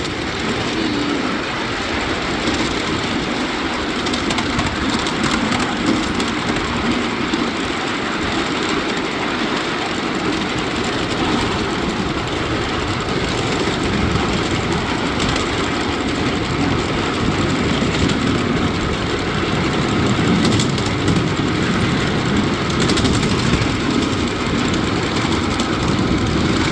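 Ride-on miniature railway train running along the track: a steady rumble with scattered clicks and rattles, typical of its wheels on the rails.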